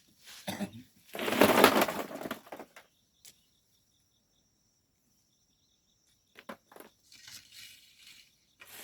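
Loud gritty rush of volcanic sand being shovelled, lasting about a second and a half from about a second in, then a few faint clicks and scrapes near the end.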